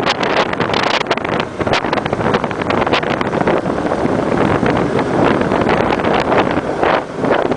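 Motorbike riding along, its engine and road noise largely covered by heavy wind buffeting on the microphone, in irregular gusts.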